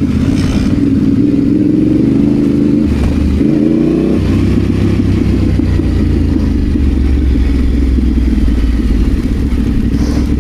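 Adventure motorcycle engine running under load off road. The revs climb briefly about three to four seconds in, then drop and settle into a steady low pull.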